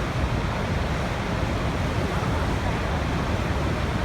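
Waterfall: a deep, steady rush of falling water that does not let up.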